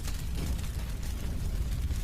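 Wood fire burning, with frequent small crackles and pops over a steady low rumble.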